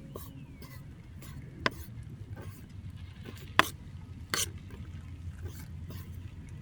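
Three sharp clicks or knocks, the loudest about halfway through, over a low steady hum.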